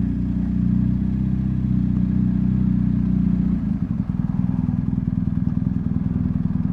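BMW R1250GS Adventure's boxer-twin engine running as the bike is ridden. The note is steady at first, then turns rougher and more pulsing about four seconds in.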